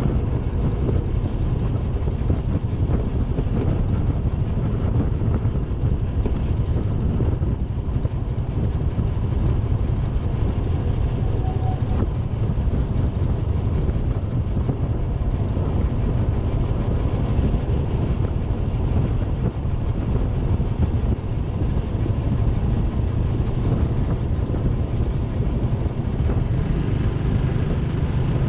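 Steady wind rush buffeting the microphone on a moving motorcycle, with the low drone of the ride underneath.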